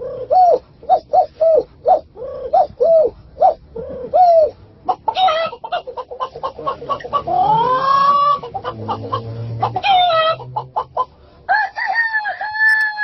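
A person imitating a chicken with their voice: a quick run of short clucks, a rising call in the middle, then a long rooster-like crow near the end.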